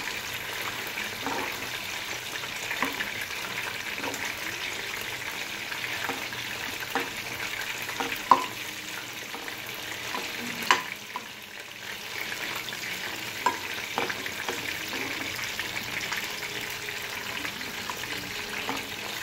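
Fried chicken lollipops sizzling in a pan of oil with soy, tomato and Schezwan sauce, a steady hiss. A spoon clicks and scrapes against the pan now and then as they are tossed, loudest about 8 and 11 seconds in.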